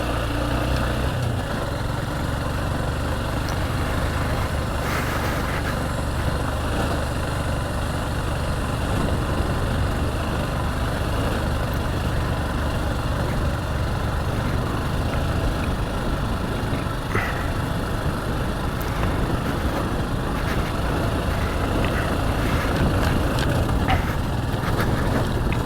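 Motorcycle engine running steadily while being ridden, with steady road and wind noise.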